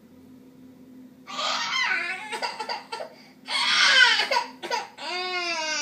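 High-pitched vocal cries: two stretches of short, shrieking squeals starting about a second in, then one long wavering wail from about five seconds in.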